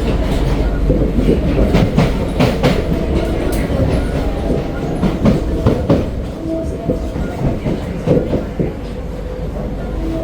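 Running noise of an SMRT C151B metro train heard from inside the car: a steady low rumble with irregular clicking and clacking from the wheels on the track. A faint steady whine joins in during the second half, and the running sound eases a little near the end.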